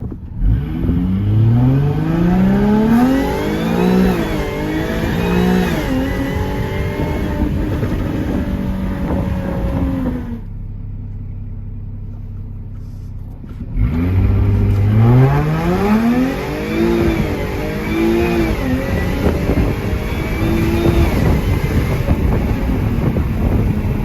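Jaguar F-Type S engine and exhaust revved hard, its pitch climbing steeply and then swinging up and down with the revs. About ten seconds in it drops back to a steadier, lower note for a few seconds, then climbs into a second run of hard revs.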